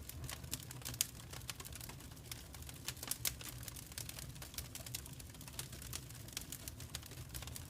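Wood fire crackling: irregular sharp pops and snaps over a low, steady rumble, with louder pops about a second in and a little after three seconds in.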